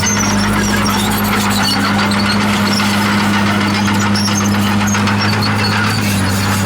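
Diesel engine of heavy earthmoving equipment running steadily at a constant pitch, with scattered high squeaks and clinks of metal over it.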